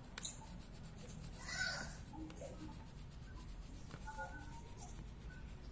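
Faint scratching of a colouring tool being rubbed over paper, strongest in one stroke about one and a half seconds in.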